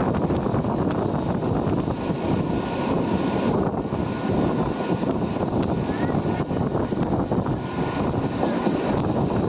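Train passing, a steady loud rumble of wheels on the rails that neither starts nor stops.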